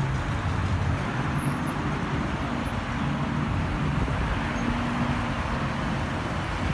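Car engines running at low revs, a steady low rumble over general outdoor background noise.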